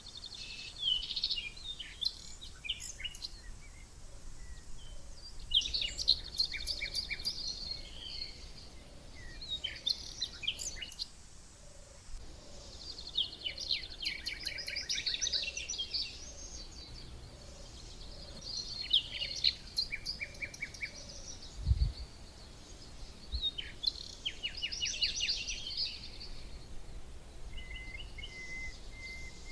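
Small songbirds chirping and singing in bursts every few seconds, with quick high trills of rapidly repeated notes. A single low thump sounds about two-thirds of the way through.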